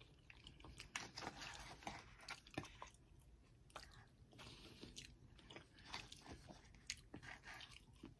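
Faint chewing and mouth sounds of a person eating a forkful of green beans, with scattered small clicks and smacks.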